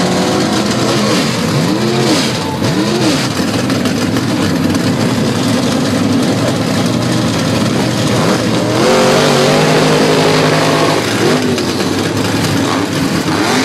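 Hot rod engine being revved hard in repeated throttle blips, the pitch rising and falling quickly several times in the first three seconds, then a longer climb about nine seconds in and further blips near the end.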